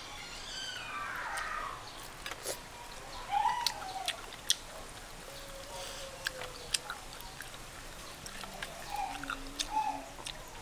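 Chewing and biting on bony pieces of black chicken, with many sharp clicks and crunches. An animal calls in the background, with a falling cry in the first two seconds.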